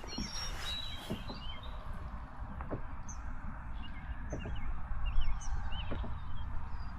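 Small birds chirping repeatedly in short rising-and-falling notes over a steady low rumble, with a few light knocks.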